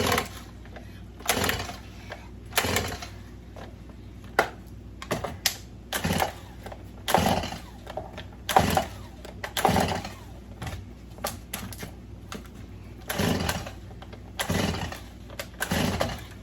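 Chainsaw's recoil starter cord being yanked over and over, about a dozen pulls roughly a second or so apart, each a short rasping zip. The engine never catches or runs.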